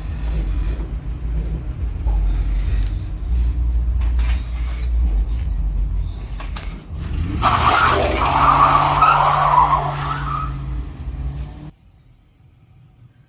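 Car engine running with a heavy low rumble, then a loud screech of tyres or scraping for about three seconds, cut off suddenly near the end.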